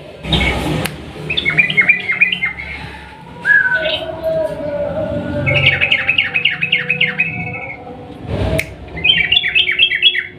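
Yellow-vented bulbul (trucukan) singing in long, rapid phrases: three bursts of quick chattering notes, with a short whistle between the first two. Two brief rustling rushes break in, one just after the start and one about eight seconds in.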